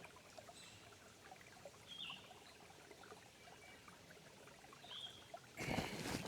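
Quiet trailside ambience with a few faint, brief bird chirps about two and five seconds in, and a louder rustle near the end, likely the hiker's footsteps.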